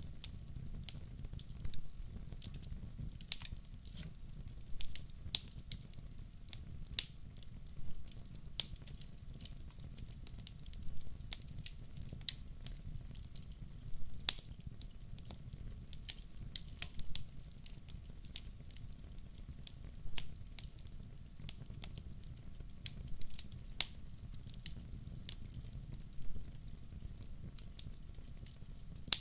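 Firewood burning in a fireplace: a steady low rumble with sharp, irregular crackles and pops every second or two.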